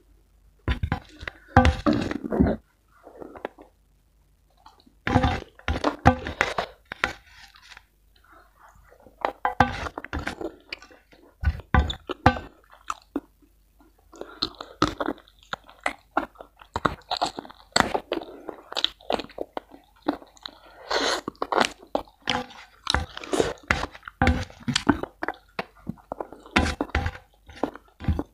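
Close-miked chewing and crunching of spicy chicken rica-rica and rice, coming in irregular bouts with brief pauses.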